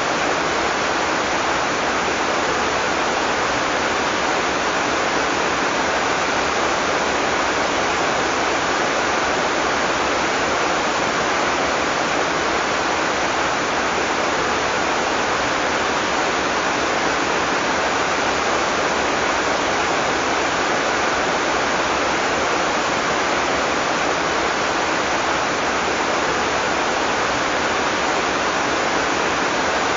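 Heavy tropical rain falling steadily, an even dense hiss with no changes.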